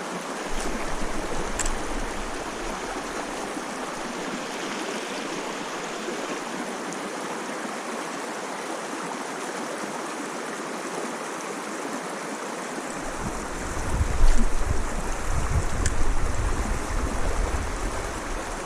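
Creek water running steadily over rocks, a constant rushing. About thirteen seconds in, a low, uneven rumble joins it and swells twice.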